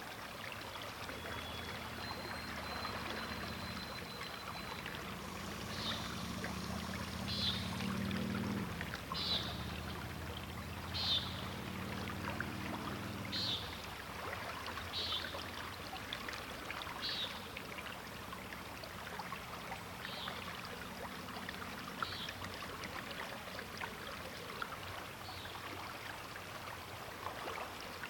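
River water flowing steadily. Over it, a bird repeats a short high note about ten times, every couple of seconds. During the first half a low hum rises and then cuts off about halfway through.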